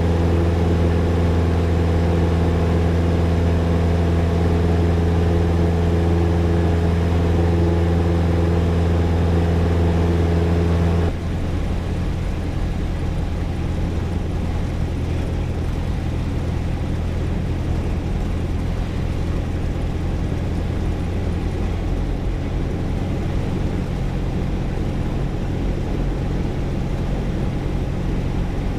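Light single-engine piston aircraft engine running at full power in the climb after a touch-and-go, a steady loud drone. A little over ten seconds in, the sound drops suddenly to a quieter, lower, rougher note and then holds steady.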